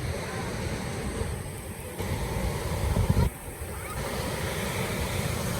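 Ocean surf with wind buffeting the microphone, a rough rumble that swells to its loudest about three seconds in and then drops off abruptly.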